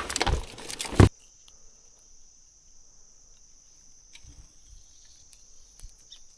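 Footsteps crunching through brush for about a second, ending in a thump and cutting off suddenly. Then a steady, high-pitched chorus of insects such as crickets, with a few faint ticks.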